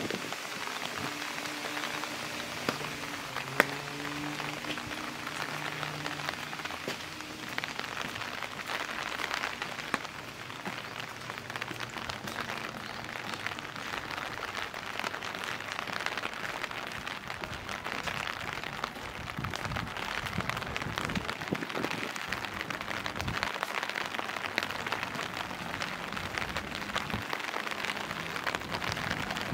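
Steady rain falling and pattering on surfaces, with many small drop ticks throughout. A single sharp click about three and a half seconds in.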